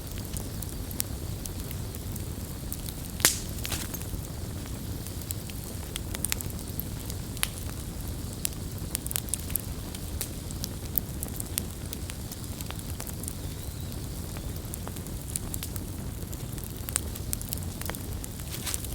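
Wood fire crackling: scattered sharp pops and snaps over a steady low rush of burning, with one loud pop about three seconds in.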